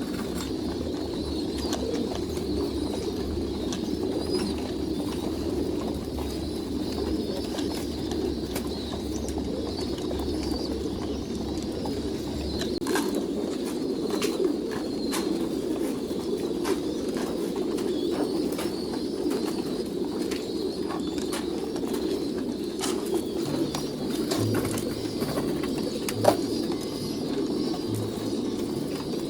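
A flock of domestic pigeons cooing together in a steady, overlapping chorus, with scattered light clicks and one sharp knock about 26 seconds in.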